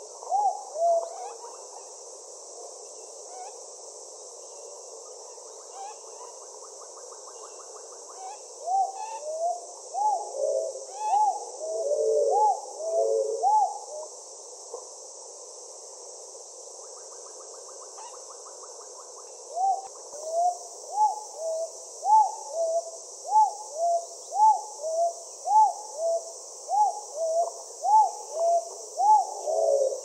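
Birds calling in repeated short hooting notes, a couple a second, in three bouts with pauses between, the notes sometimes overlapping; a steady high hiss runs underneath.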